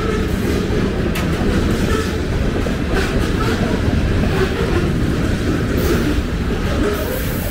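Covered hopper cars of a freight train rolling past: a steady rumble of steel wheels on rail, with sharp clicks now and then as wheels cross rail joints.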